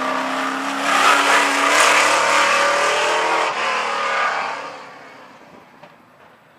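Modified stock car's fuel-injected GM LS-family V8 running at speed on the track. The engine note is loudest through the first few seconds, then fades away as the car moves off.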